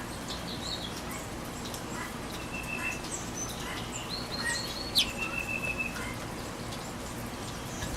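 Birds calling in short high chirps and brief whistled notes, with one sharp downward-sweeping call about five seconds in, over a steady hiss of rain.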